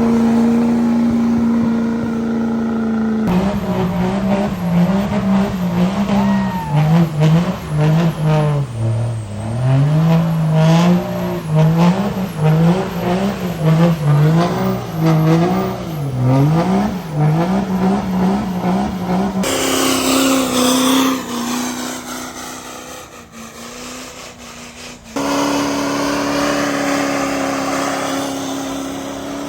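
Truck engines at high revs during burnouts. First one engine is held steady. Then the revs swing up and down rapidly over and over for about sixteen seconds. After an abrupt cut, another engine is held at high revs.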